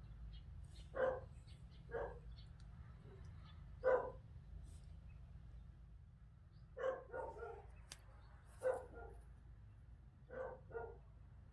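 A dog barking in short, irregular barks, about seven in all, some coming in quick pairs, over a steady low rumble.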